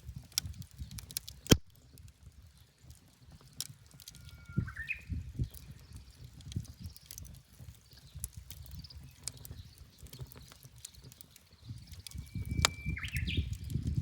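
Wood fire crackling and popping in a pizza oven over a low rumble of flames, with one sharp, loud pop about one and a half seconds in. A bird sings twice, a held whistled note ending in a quick flourish, about five seconds in and near the end.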